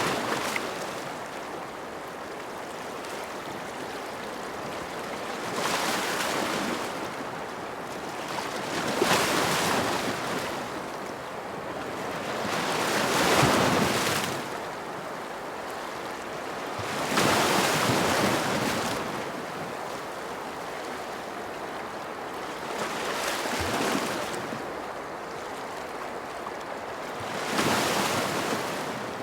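Ocean waves washing onto a shore, each surge of surf swelling and falling away over a couple of seconds, about six times, every four to six seconds, over a steady background wash.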